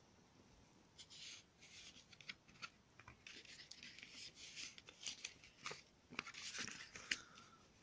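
Faint rustling with scattered light clicks, like the paper pages of a picture book being handled or turned; it starts about a second in.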